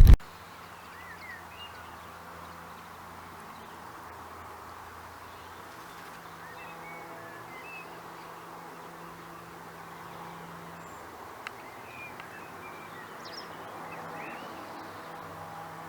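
Birds chirping here and there over quiet countryside ambience, with a faint low steady hum underneath. A louder rumble of road or wind noise cuts off right at the start.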